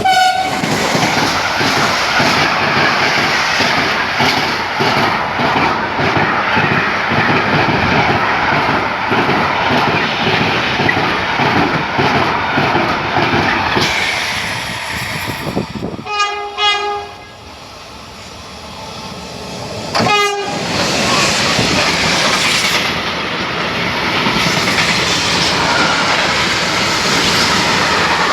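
A train passing at speed, wheels clacking rhythmically over the rail joints. About sixteen seconds in the noise drops away and a short train horn sounds, another brief horn blast comes about four seconds later, and then the rushing noise of a passing train fills the rest.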